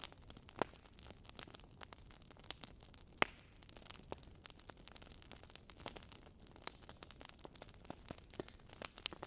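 Wood fire in a fireplace crackling: irregular sharp pops and snaps over a low hiss, the loudest pop about three seconds in.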